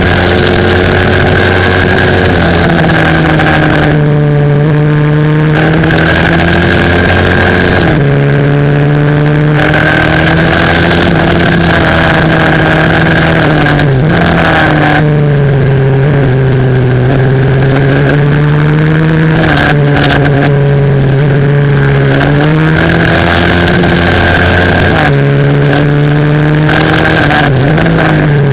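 A 140 cc single-cylinder four-stroke pit bike engine racing flat out, loud and steady. Its pitch climbs, steps down sharply and dips again several times as the rider accelerates, shifts gear and backs off for corners.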